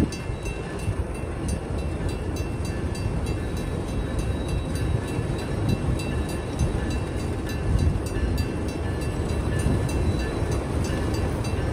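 Diesel locomotives of a Union Pacific freight train running slowly across a steel railroad bridge: a steady low rumble with faint high steady tones above it.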